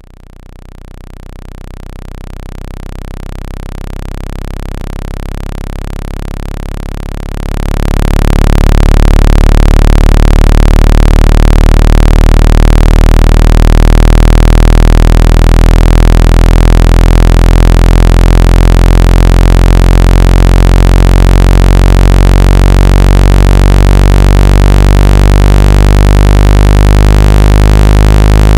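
Synthesized phone speaker-cleaning tone: a loud, steady, low buzz with many overtones, played to vibrate the speaker membrane and shake out water and dust. It swells in gradually, then jumps louder with added hiss about seven seconds in.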